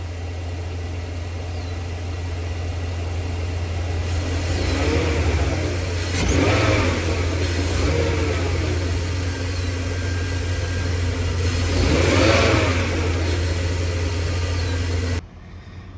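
BMW M54 3.0-litre inline-six idling in a 2004 X5, given several light blips of the throttle that swell and fall back to idle, the two strongest about six and twelve seconds in. The engine was started cold after sitting for months and sounds healthy to its owner. The sound drops away abruptly about a second before the end.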